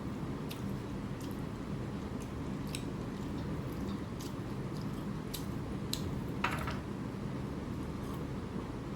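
Close-miked chewing and wet mouth clicks of a person eating a rice-and-curry meal, with one louder click about six and a half seconds in, over a steady low hum.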